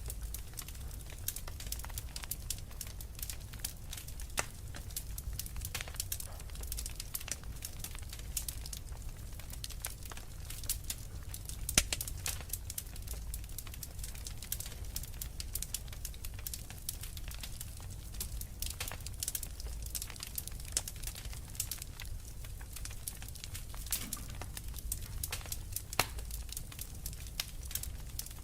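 Wood fire crackling in a fireplace: a steady patter of small snaps and pops over a low rumble of the flames, with a few sharper pops, the loudest about twelve seconds in.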